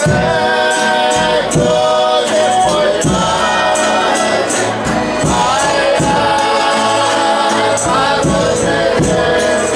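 Folia de Reis singers chanting a sung verse in several voices together, over the steady jingling beat of a tambourine.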